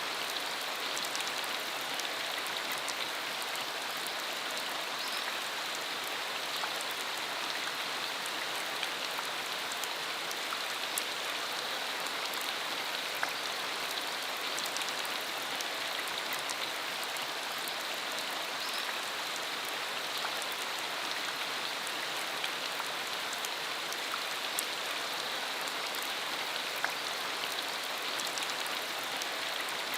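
Rain falling steadily, with many separate drops ticking close by.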